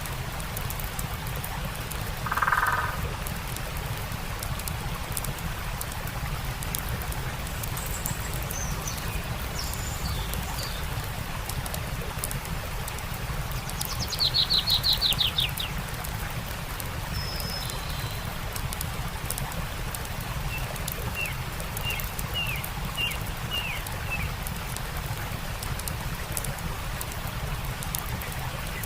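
Steady rush of a stream with the scattered small pops of a campfire crackling, while birds call over it: one short call about two seconds in, a rapid trill of about eight notes around halfway, and a run of short chirps near the end.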